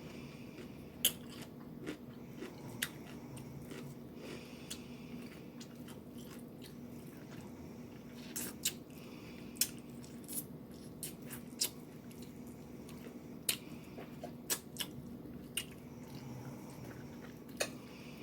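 Close-miked chewing and biting of food, with irregular sharp, wet mouth clicks every second or so. A faint steady low hum runs underneath.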